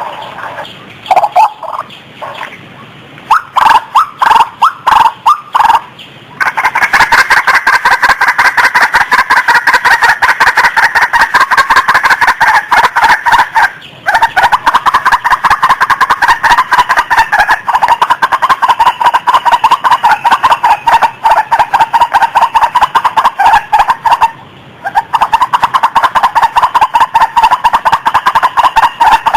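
White-breasted waterhen (ruak-ruak) calls from a lure recording. A few scattered calls come in the first seconds. From about six seconds in they become a fast, continuous run of repeated calls, broken twice by brief pauses.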